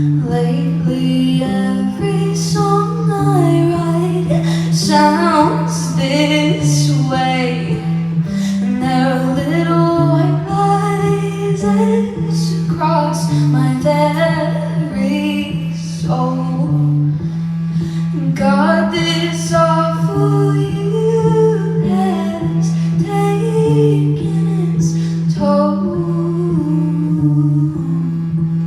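Live song: a woman singing, accompanied only by a bass guitar playing a steady line of low notes.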